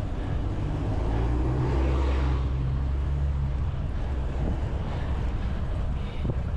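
Wind rushing over a cycling camera's microphone while riding on a road, with a motor vehicle passing: a low engine hum comes in about a second in and fades out after about four seconds.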